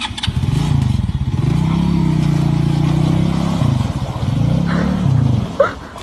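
A motor vehicle engine revving: its pitch climbs, holds steady, drops about four seconds in, climbs again and falls away near the end.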